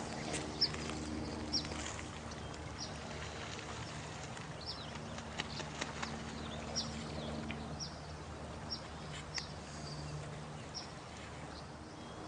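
Night nature ambience: running water as a steady hiss, with a short, high, falling chirp from a small animal about once a second and a low steady drone underneath.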